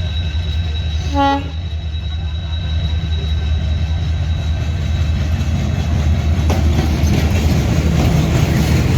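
Broad-gauge diesel-hauled express train running, its engine giving a steady low rumble. A short horn blast sounds about a second in, and the wheel noise on the rails grows louder and clattering in the second half.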